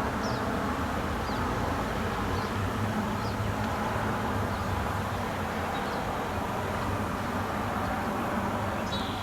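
Steady outdoor background noise of distant road traffic, with a low hum throughout. Faint, short, high chirps come through about once a second.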